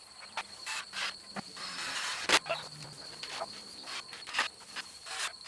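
Scattered knocks and clicks of hand work on a wooden frame, the loudest knock a little past the middle, over a steady high-pitched insect drone.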